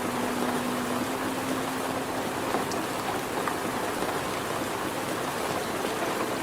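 Steady rain, an even hiss of falling drops. A low held tone fades out in the first few seconds.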